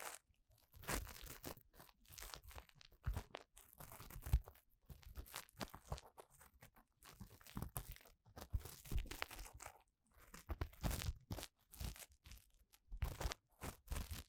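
An ear-cleaning tool scraping and rubbing inside the ear of a binaural dummy-head microphone, heard close-up as irregular scratchy, crackling strokes with short pauses between them.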